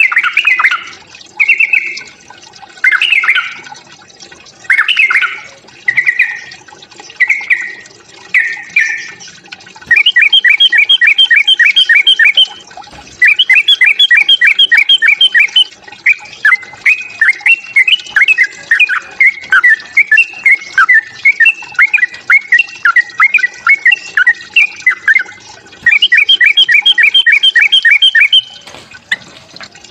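Yellow-vented bulbul (trucuk) in agitated 'fighting' song. It starts with short, loud chirpy phrases about a second apart, then gives fast rattling runs of notes and a stretch of bubbling warbles, with another fast run near the end.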